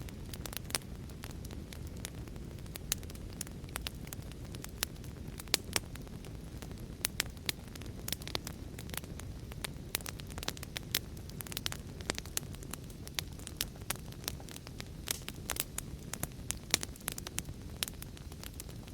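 Wood fire crackling: a steady low rumble of flames with frequent sharp, irregular pops and snaps, several a second.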